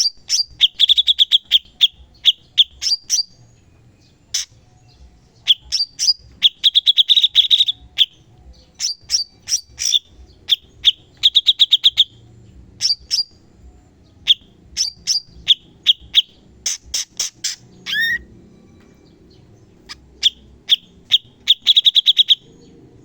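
Cucak cungkok singing its 'tembakan' (shot) song: loud clusters of very fast, sharp, high-pitched notes, each burst lasting about a second, separated by short pauses.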